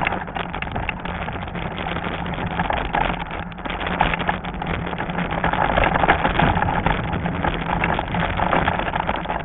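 Wind buffeting the action camera's microphone with trail and tyre rumble while riding a Lectric XP fat-tire e-bike, over a steady low hum. The noise swells and dips with the gusts.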